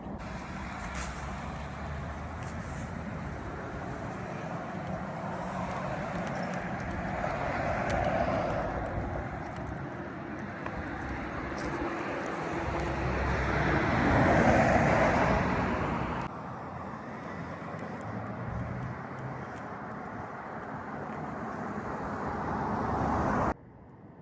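Highway traffic with trucks driving past: engine and tyre noise swells as each one passes, loudest about a third of the way in and again just past halfway. The sound cuts off suddenly twice.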